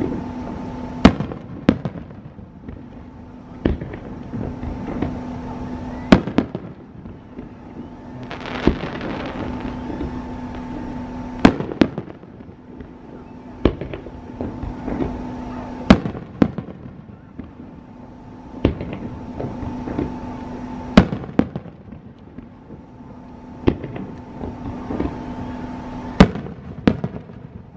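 Aerial fireworks shells bursting, with a sharp bang every two to five seconds and a short echoing tail after each. A steady low hum runs underneath for much of the time.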